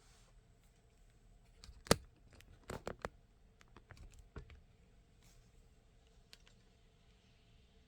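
A few short, sharp clicks and taps: a loud one about two seconds in, a quick run of three near three seconds, and a softer one a little later.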